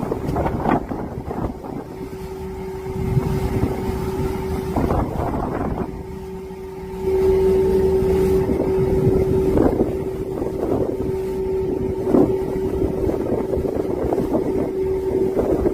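A motor running with a steady, even drone under wind buffeting the microphone. It gets louder about seven seconds in.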